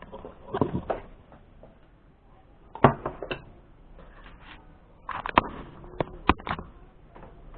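Irregular knocks and clatter of objects being handled, in a few clusters of sharp taps.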